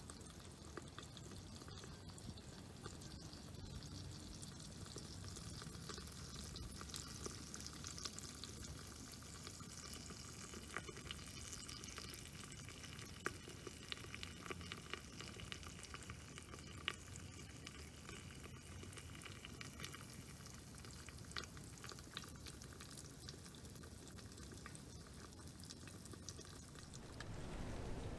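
Faint sizzling and crackling of cooking over campfire coals, with scattered small pops.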